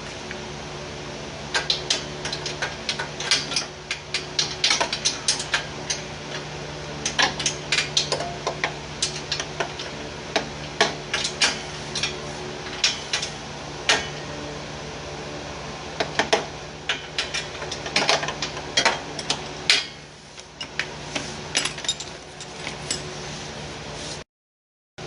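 Irregular light clinks and knocks, many in quick clusters, over a steady hum.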